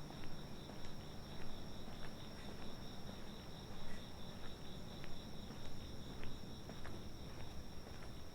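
Night insects chirring steadily at two high pitches, one even and one pulsing, over the regular footsteps of someone walking.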